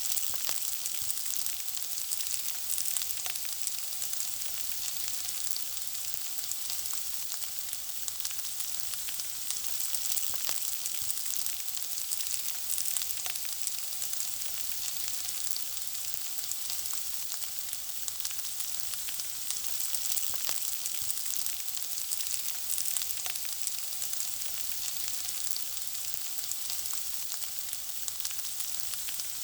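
Food frying: a steady, high sizzle dotted with many small crackles and pops.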